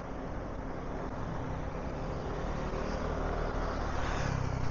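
City street background with road traffic: a steady hum of passing vehicles that grows a little louder near the end.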